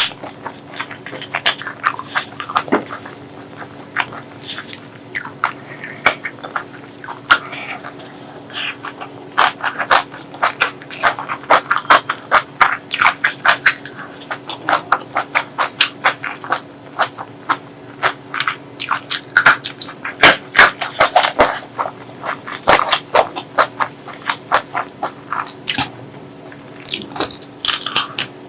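Close-miked eating: rapid wet chewing and mouth clicks with bites, in quick irregular clusters.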